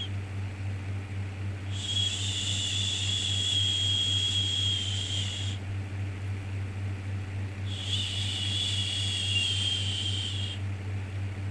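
Long 'shhh' shushing sounds for soothing a baby, each lasting three to four seconds with a pause of about two seconds between them, over a steady low hum.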